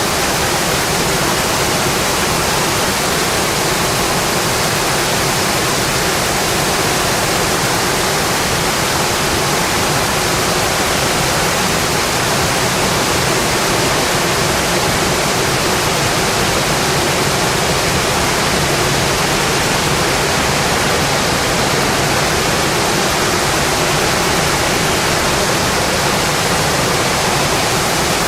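Steady rain falling on a windowpane, a continuous even rushing hiss.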